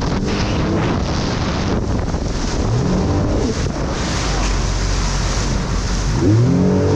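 Jet ski running on open water, with wind buffeting the microphone and water rushing. The engine's pitch rises briefly about three seconds in and again near the end.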